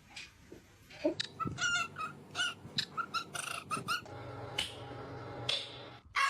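A bird, most likely a pet parrot, giving a quick run of short pitched calls, about a dozen in three seconds, followed by a steady low hum lasting about two seconds.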